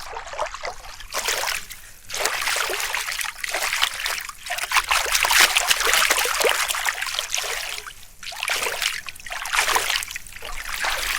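A muddy bicycle wheel being rinsed in open water: splashing and sloshing in repeated uneven surges as it is washed clean.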